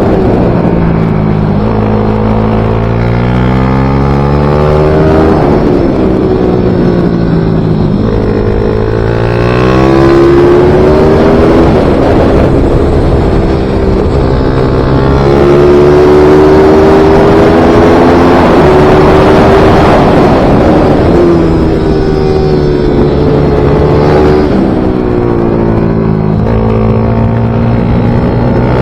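Small racing motorcycle engine, loud, working hard around a circuit lap: its pitch climbs under acceleration and drops away several times as it shifts and brakes for corners.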